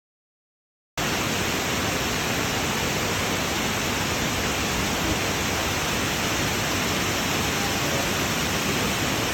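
Fukuroda Falls, a waterfall, giving a steady, even rush of falling water at low flow; it cuts in suddenly about a second in, after dead silence.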